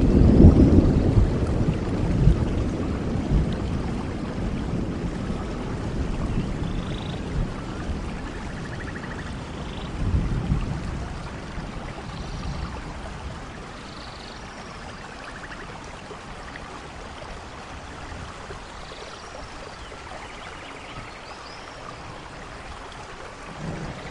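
Steady rain with a rolling thunder rumble that is loudest at the start and dies away over about fifteen seconds, swelling once more about ten seconds in.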